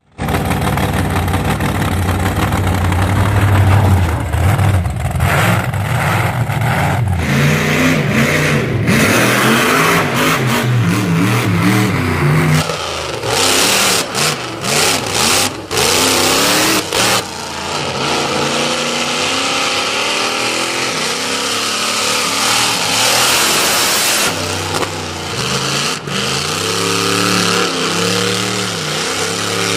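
540-cubic-inch Dart big-block Chevrolet V8 running and being revved over and over, its pitch rising and falling. A noisier, choppier stretch comes about halfway through, then steadier running with smaller revs near the end.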